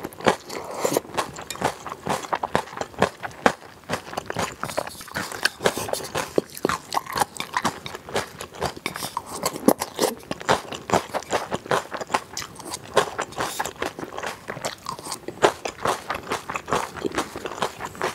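Close-miked chewing and crunching of a mouthful of chilled pigs'-feet salad with sliced vegetables and glass noodles in mustard sauce: many quick, irregular wet crunches and mouth clicks.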